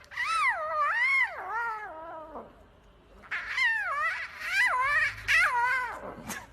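Domestic cat giving long, drawn-out meows whose pitch wavers up and down, in two stretches of about two and a half and three seconds with a short break between.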